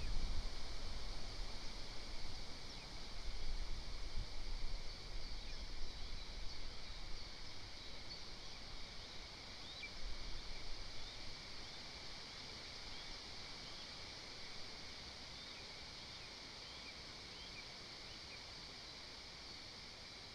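Outdoor forest ambience: wind gusting on the microphone, easing off after about ten seconds, over a steady high hiss with many faint, short chirps of distant small birds.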